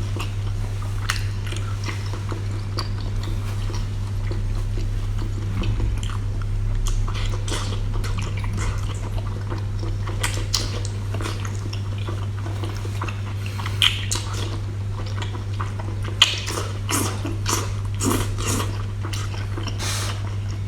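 A person chewing and biting food close to the microphone, with many short wet clicks and smacks, over a steady low hum.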